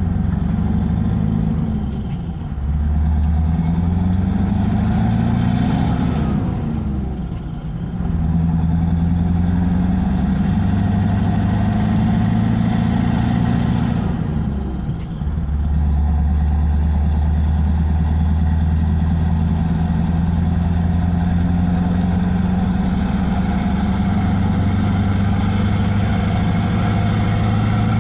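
Scania R500's 16-litre V8 diesel engine running. Its note climbs slowly, drops sharply twice, about seven and about fifteen seconds in, and holds steady in between and afterwards.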